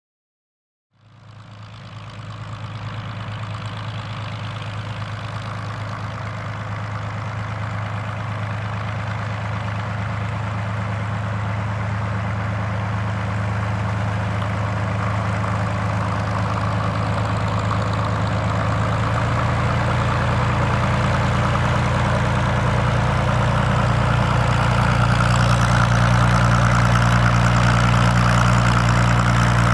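Vintage warplane's piston engine running steadily at low speed, a deep even hum that starts about a second in and slowly grows louder.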